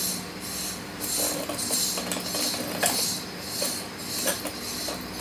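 Ceiling fan motor running, with a steady low hum and a light clinking tick that repeats about once every 0.7 seconds as it turns. The fan is wired so that it spins in reverse.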